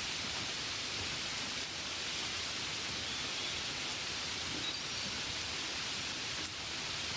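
Steady rain falling, an even hiss of drops with a few faint taps standing out.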